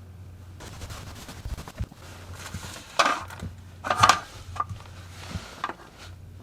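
A steady low hum, with a handful of sharp knocks and clatters; the two loudest come about three and four seconds in.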